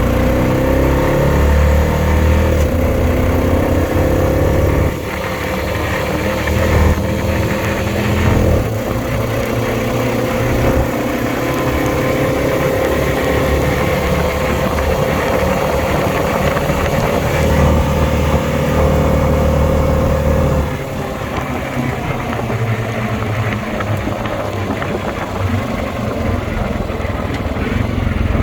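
2020 Honda Rubicon 520 ATV's single-cylinder engine running under way, its note rising and falling with the throttle. It eases off about five seconds in and again about twenty seconds in.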